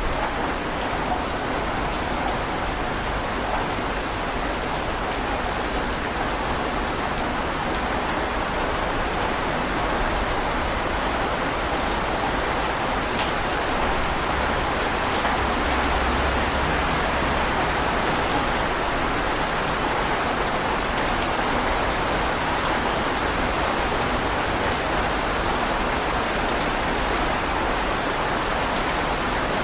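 Steady heavy rain falling, a dense even hiss with scattered drop patter.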